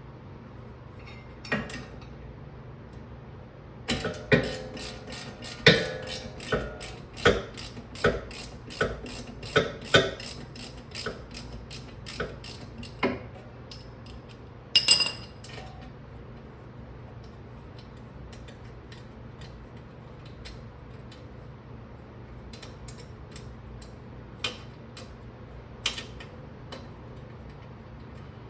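Hand ratchet clicking in a run of short, uneven strokes for about ten seconds as a bolt is worked, then a single ringing metal clink a couple of seconds later, with a few faint clicks near the end.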